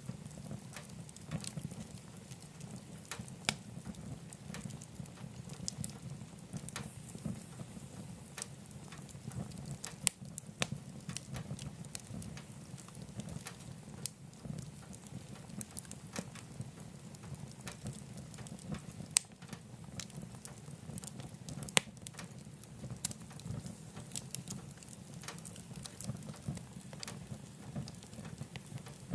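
Wood fire burning in a wood stove: a steady low rumble of flames with scattered crackles and a few louder, sharp pops from the burning logs.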